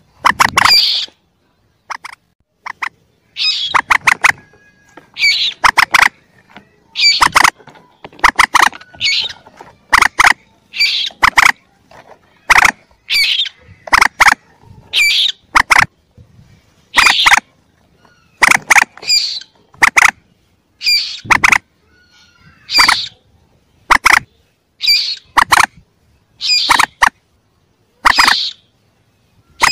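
Recorded calls of young common moorhens (burung mandar), short harsh squawking clusters repeated about every one to two seconds, played back as a bird-trapping lure.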